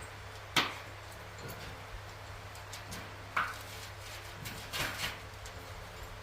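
A few sharp clicks and knocks over a steady low hum: one loud click about half a second in, another about three and a half seconds in, and a short cluster near five seconds.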